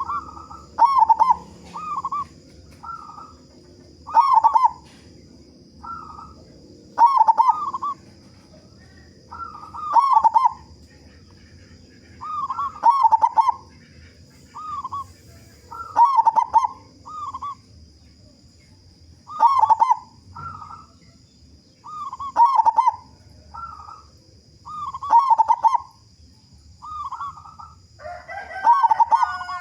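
Zebra dove (perkutut) cooing over and over: a phrase of several quick, falling coos every two to three seconds, with single short coos between phrases. Near the end a different, noisier call cuts in.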